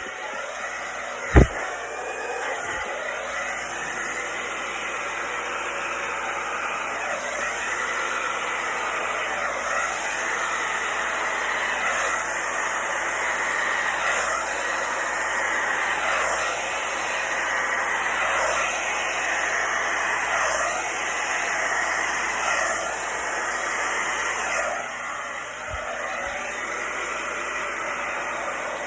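Handheld electric hair dryer on a low, cool setting, blowing steadily to push wet acrylic pour paint across a canvas. A sharp click about a second in is the loudest moment, with a fainter click near the end.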